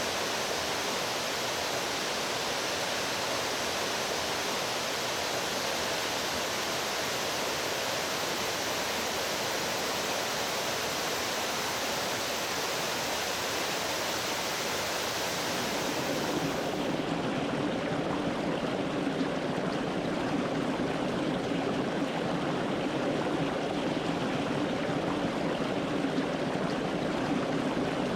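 Stream water rushing steadily. About two-thirds of the way in, the sound switches to a deeper, slightly louder flow with less hiss, as from a different stretch of water.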